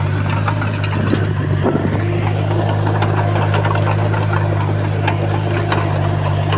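Heavy earthmoving machine's diesel engine running steadily at a constant pitch, with scattered light clicks and knocks throughout.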